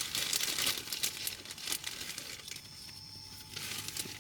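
Crinkling, rustling handling noise of a soft material being crumpled and moved, in quick bursts through the first two seconds, then quieter.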